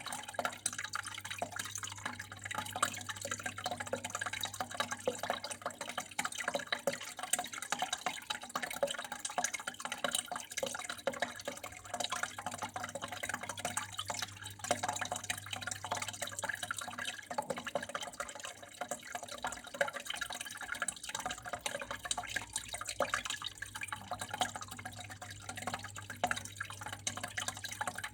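Water trickling and dripping steadily, a dense patter of small splashes over a faint steady low hum.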